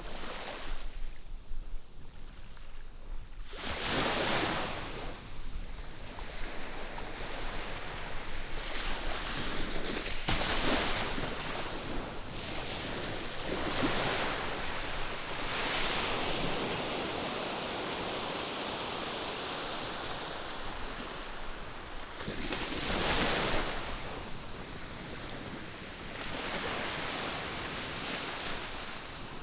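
Distant ocean surf: waves breaking on the shore in swells every few seconds, with a steady wash between breaks.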